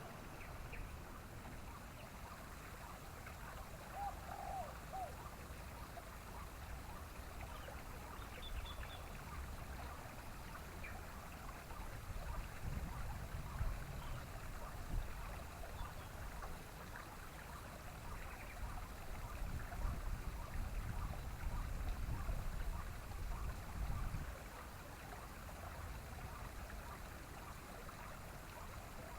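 Steady rushing water-like ambience with a low rumble that grows stronger through the middle. It carries a few faint, short bird calls, one about four seconds in and a high one near nine seconds.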